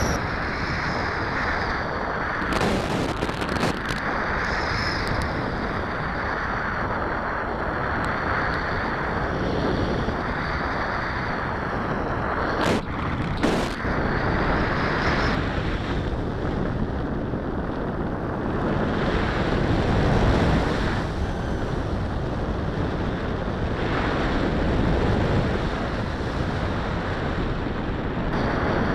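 Airflow rushing over the microphone of a camera mounted on a flying RC sailplane: a steady rushing noise that swells and eases, with a few brief crackles near the middle.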